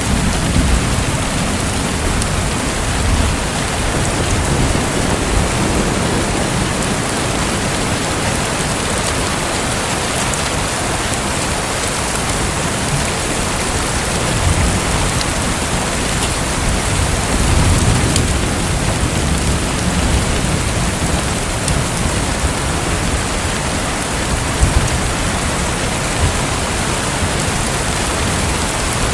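Steady, dense rushing water noise like heavy rain, with low rumbles swelling now and then and a couple of brief ticks near the end.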